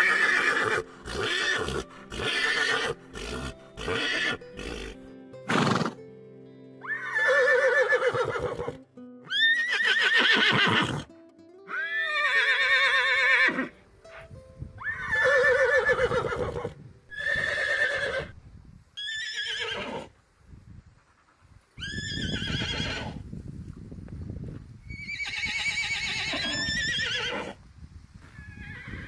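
Horses neighing over and over, about nine separate whinnies, each with a quavering pitch that falls away.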